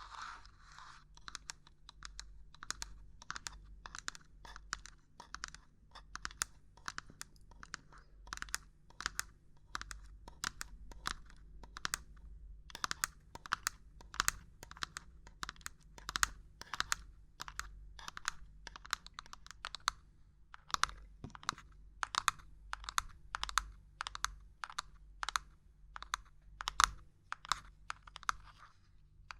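Fingers or nails knocking and tapping on hard objects in quick, irregular taps, about two or three a second, with a brief lull about twelve seconds in.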